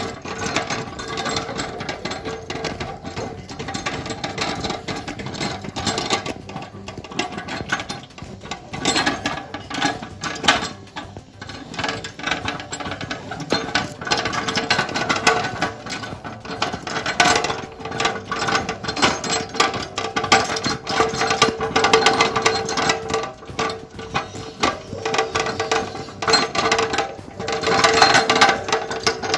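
Continuous rattling and clattering of a hand cart carrying a metal water churn, with a steady whine underneath.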